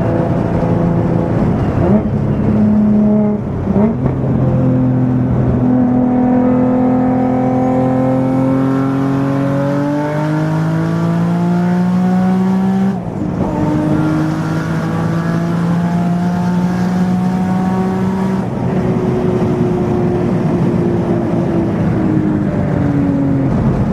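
Turbocharged V6 of a manual Infiniti G35 coupe pulling hard under boost, its pitch climbing through one gear, dropping at a shift about thirteen seconds in, and climbing again before it lifts off and the pitch falls near the end. The turbo is held to about half boost by an exhaust leak, as the owner says.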